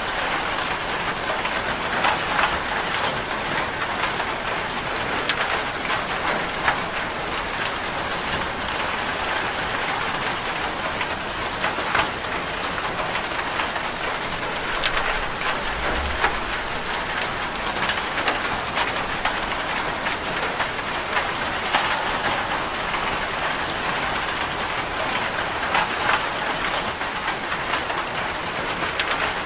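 Steady rain falling on a surface, an even hiss with many scattered sharp drip-like ticks.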